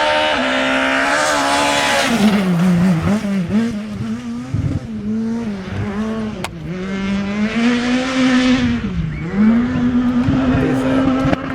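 Rally car engine at high revs, its pitch climbing and then dropping sharply several times as the driver shifts gear and lifts off. A single sharp crack comes about six and a half seconds in.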